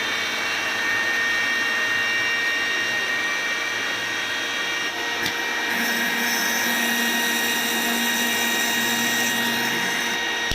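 Electric kitchen blender running steadily, blending sliced bananas, sugar and milk into a milkshake, with a steady motor whine; the tone shifts slightly about halfway through.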